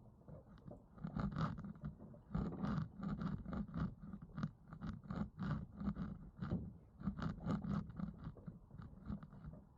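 Footsteps crunching through snow, an uneven run of about two crunches a second.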